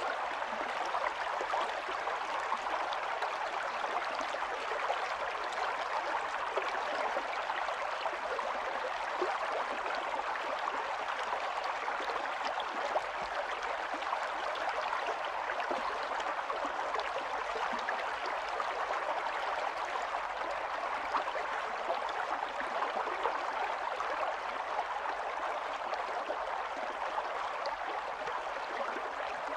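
Small stream running steadily over stones: a continuous babbling of water full of tiny splashes and gurgles.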